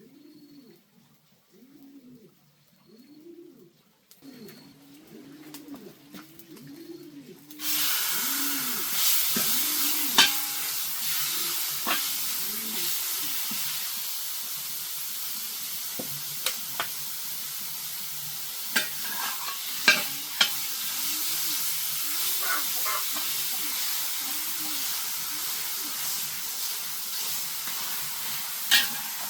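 A dove cooing in a repeated low phrase, then food hitting a hot oiled pan with a sudden loud sizzle. The sizzle carries on steadily while the food is stirred, with sharp scrapes and clicks of the utensil against the pan, and the dove coos on behind it.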